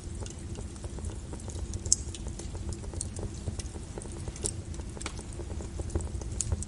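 Wood fire burning in a fireplace: a steady low rumble of flames with frequent irregular crackles and pops, one sharper pop about two seconds in.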